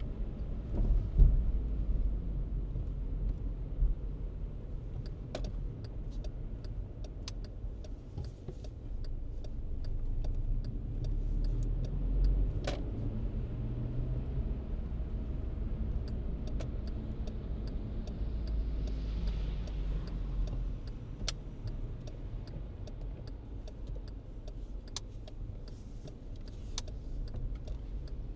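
Car driving on snowy city streets: a steady low rumble of engine and tyres, with scattered short sharp clicks throughout.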